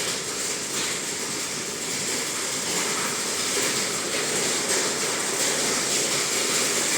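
Heavy rain mixed with falling hail, a steady loud hiss of downpour.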